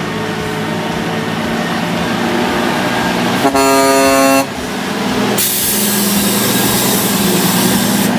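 Semi-truck engine running, with a single horn blast about a second long partway through, the loudest sound; a loud rushing hiss follows and continues.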